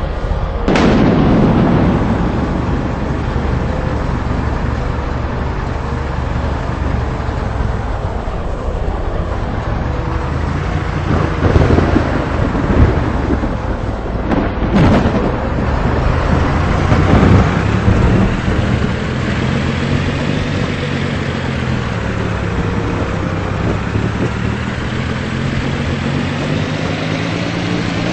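A vehicle engine running under a continuous rumbling noise, broken by a sharp crack just under a second in and another about halfway through.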